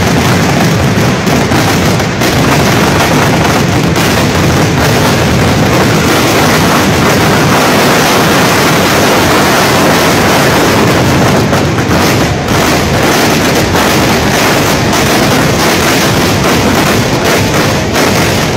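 Fireworks barrage: very loud, rapid blasts and crackling running together without a break, dense enough that single bangs are hard to pick out.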